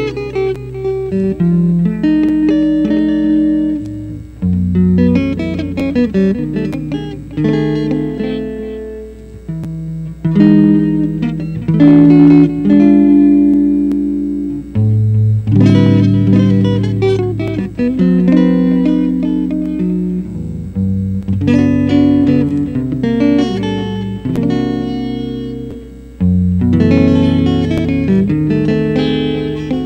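A solo guitar plays a slow jazz ballad. It plucks chords and lets them ring and fade, with bass notes moving beneath them.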